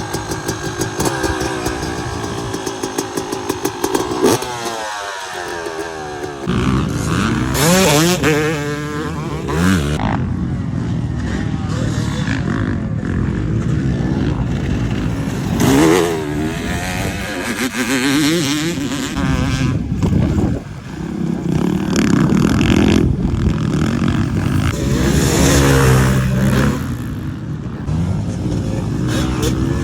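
Yamaha YZ250 two-stroke dirt bike engine running at low revs with a rapid regular pulse for the first few seconds, then revving hard under way. Its pitch climbs and drops again and again as the throttle is opened and closed.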